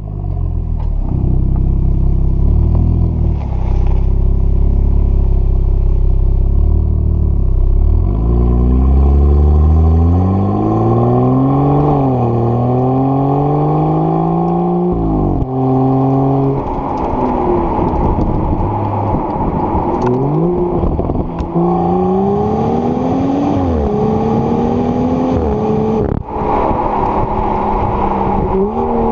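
Engine and exhaust of a 2016 BMW X4 M40i, a turbocharged straight-six. For about eight seconds it runs at a steady low note, then accelerates with the pitch rising and dropping at each upshift, twice around the middle and several more times in the second half.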